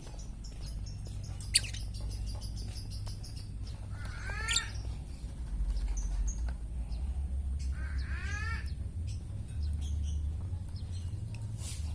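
Lovebird calling: short harsh chirps in two clusters, about four and about eight seconds in, over a steady low rumble. A single sharp click comes about a second and a half in.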